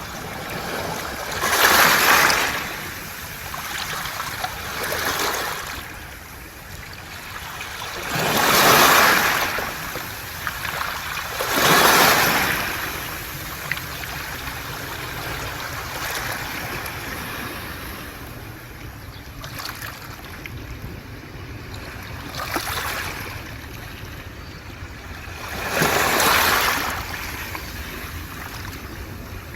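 Waves washing up a beach of round pebbles (mongdol) and drawing back, rattling and hissing through the stones. Six surges rise and fade over a steady sea hiss, the loudest at about 2, 9, 12 and 26 seconds in.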